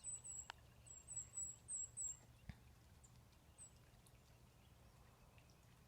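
A small songbird calling a quick series of about seven short, very high, thin notes in two seconds, with one more note a little later.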